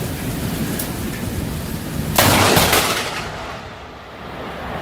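A sudden loud crash about two seconds in, dying away within a second, over a steady rushing noise.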